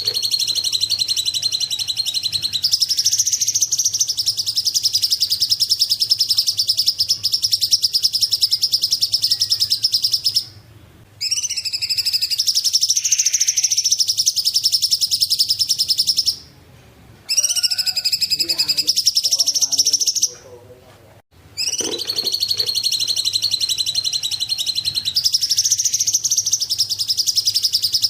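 Cungkok bird singing: long, high, rapid trills lasting several seconds each, broken by three short pauses.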